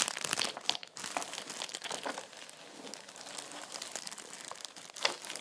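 Crinkly plastic being handled, crinkling and crackling irregularly, with a sharp click at the start and louder crackles near the end.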